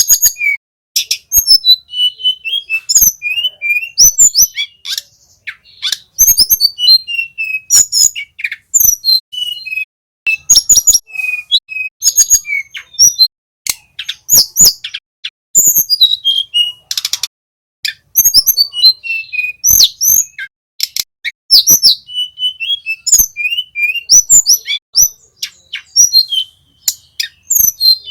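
Blue flycatcher song: rapid, varied phrases of sharp ticks and short whistled chirps, coming in bursts with brief gaps.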